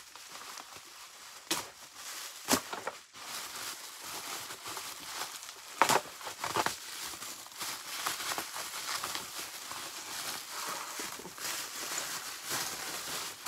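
Packaging crinkling and rustling as a new upright vacuum cleaner is unpacked, with a few sharp clacks; the loudest comes about six seconds in.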